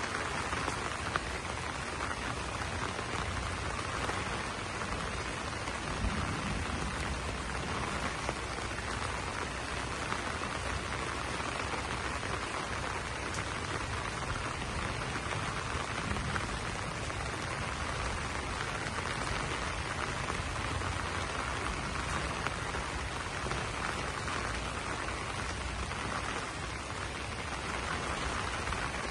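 Steady rain falling on banana leaves: an even hiss of drops with a few sharper drop hits standing out.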